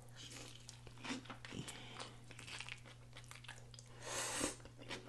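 Close-miked biting and chewing of an onion-wrapped cheeseburger: small wet crackles and clicks of the mouth, with one louder patch of noise about four seconds in. A faint steady hum runs underneath.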